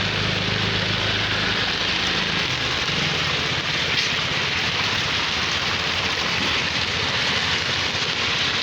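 Heavy rain pouring steadily. A vehicle engine hums low in the first two seconds or so, then fades out under the rain.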